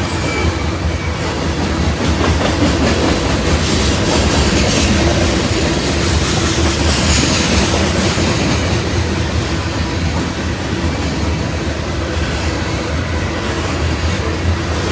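Train rolling past with a steady rumble and a few clacks from the wheels over the track.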